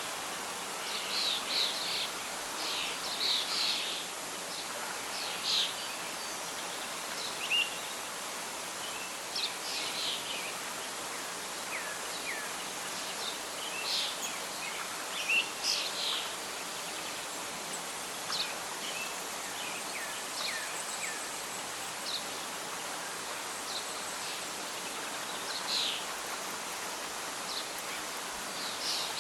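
Wild birds chirping in short, scattered calls, some sliding down in pitch, over a steady soft hiss of wind and rustling leaves.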